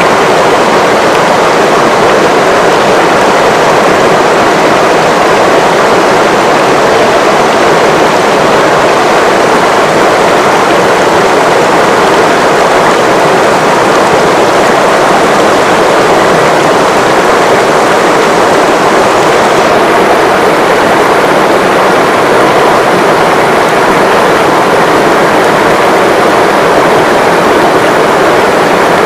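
River water rushing, a loud steady roar of flowing water without pause.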